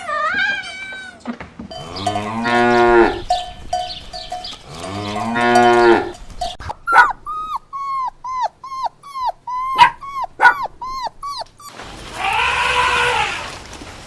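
A cow mooing twice, two long low calls, followed by a run of about a dozen short, quick chirping calls and one more rougher animal call near the end.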